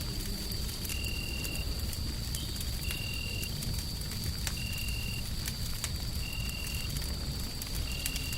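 Wood fire crackling with scattered sharp pops over a steady low rumble of white noise. A thin high whine holds steady throughout, and a short high chirp, about half a second long, repeats roughly every one and a half seconds.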